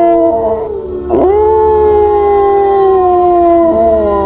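Wolf howling: one howl fades out about half a second in, then a second long howl swoops up about a second in and is held, slowly falling in pitch, until near the end, over a steady low rumble.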